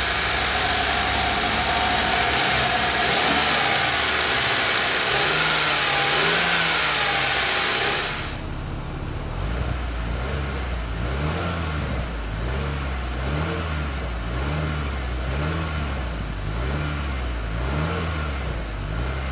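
2023 Acura RDX's turbocharged 2.0-litre four-cylinder engine running: louder at first, then about eight seconds in it drops suddenly to a quieter, lower idle with an evenly pulsing low drone.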